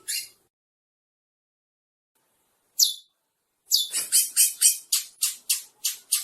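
Curió (chestnut-bellied seed finch) singing. A single high note sweeps down, then after a short pause comes a fast run of about a dozen sharp notes, some four a second.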